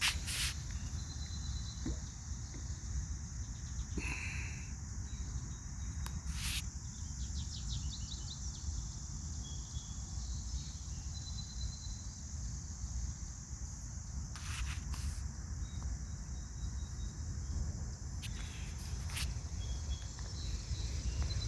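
A steady, high-pitched chorus of insects, typical of crickets, droning without a break. A few brief bird calls and short chirps stand out over it, with a low rumble of wind or walking underneath.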